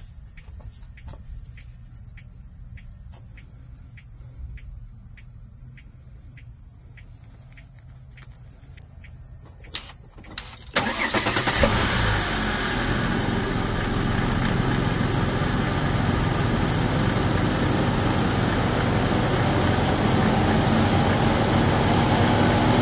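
Faint crickets chirping in a steady rhythm, about two to three chirps a second. About eleven seconds in, the Volvo XC90's engine starts with its newly replaced PCV valve and settles into a steady idle.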